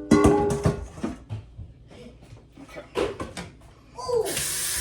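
Brief indistinct voices and small kitchen knocks, then a kitchen tap is turned on about four seconds in and water runs steadily into the sink.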